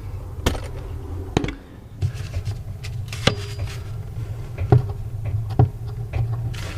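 Scattered sharp knocks and clicks from tools and parts being handled, about five over a few seconds, over a steady low hum.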